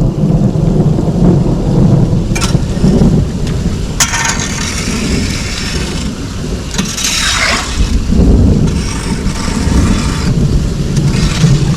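Loud, steady rumbling rush of water and rain, with hissing surges about 4 and 7 seconds in.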